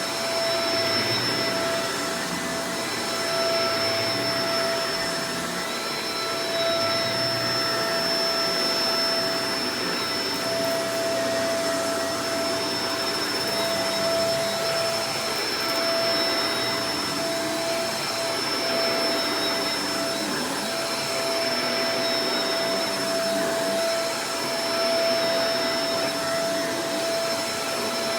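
Shark Professional Powered Lift-Away DLX (NV586) upright vacuum cleaner running steadily: an even rush of air with a constant motor whine on top.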